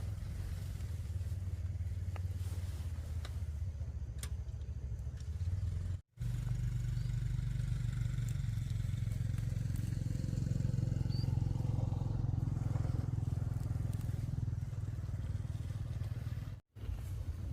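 Motorbike engine running steadily on the move, a continuous low rumble that cuts out abruptly for a moment twice, about six seconds in and near the end.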